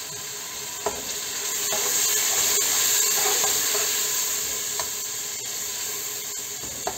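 Onion-tomato spice masala sizzling in hot oil in an aluminium pressure cooker, just wetted with a splash of water. The sizzle swells for about three seconds and then eases, while a slotted metal spatula stirs and scrapes against the pot, clicking now and then.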